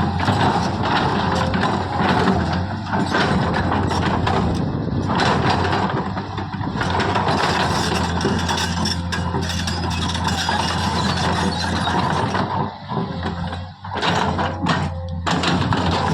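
JCB 3DX backhoe loader's diesel engine running steadily while digging and loading mud, with continuous metallic clanking and rattling from the bucket and arm.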